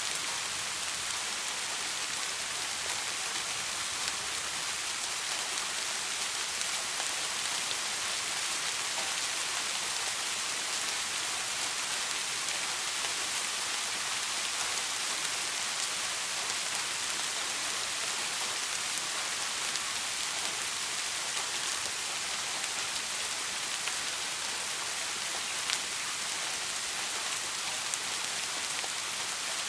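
Steady soft rain falling: an even, unbroken hiss with a few individual drops ticking out above it. No thunder.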